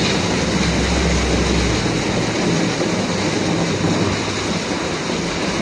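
Steady heavy rain, an even hiss, with a low rumble during the first couple of seconds.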